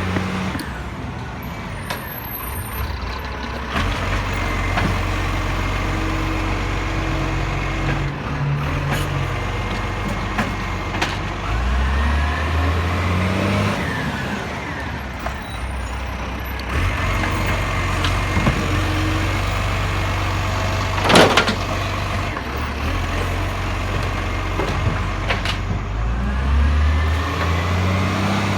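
Garbage truck's diesel engine running, revving up and settling back several times, with a brief sharp hiss about two-thirds of the way in.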